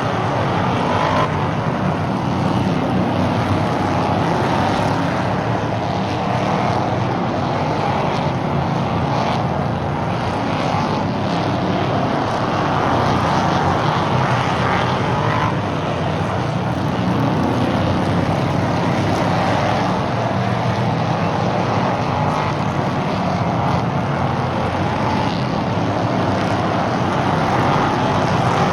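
Stock cars racing around an oval track, their engines running hard in a continuous din that swells slightly now and then as cars go by.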